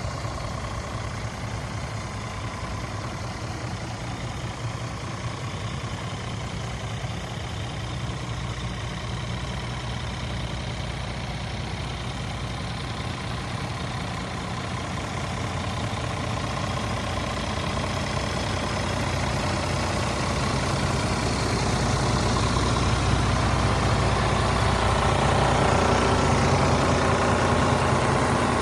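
Scania R450 truck's diesel engine running steadily, growing gradually louder through the second half.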